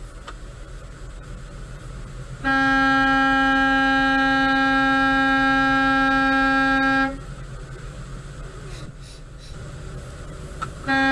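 Semi-truck air horn blown in one long, steady blast of about four and a half seconds, then sounded again near the end, over a low steady rumble.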